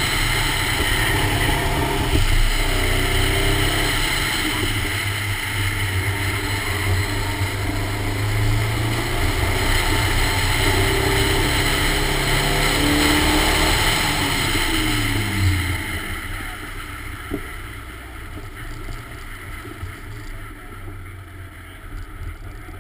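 1986 Toyota Corolla AE86's 1.8-litre 7A-GE stroker four-cylinder engine pulling hard through an autocross run, revs rising and falling. About fifteen seconds in the revs drop away and the car slows, the engine running much quieter.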